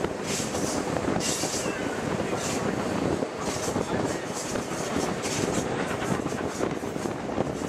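Passenger train rolling along the track, heard from a window of one of its cars: a steady rumble and rush of wheels on rail, with the high hiss swelling and fading every second or so.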